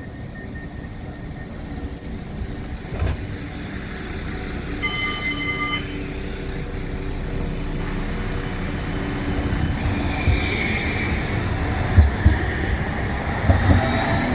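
West Midlands Metro tram running, heard from on board, its rumble growing louder as it picks up speed. A brief high tone sounds about five seconds in, a wheel squeal rises about ten seconds in, and a few knocks follow near the end.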